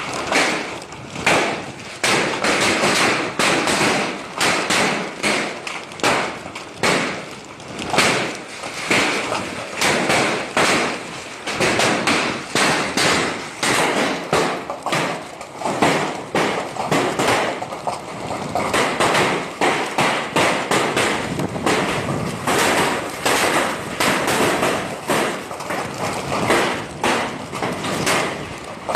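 Heavy rain falling: a steady hiss crowded with frequent sharp knocks, its loudness swelling and dipping every second or two.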